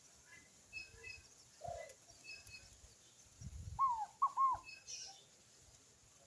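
Bird calls outdoors: faint high chirps repeating throughout, and about two-thirds of the way through three short, loud, arched whistled notes in quick succession. A brief low rumble comes just before the notes.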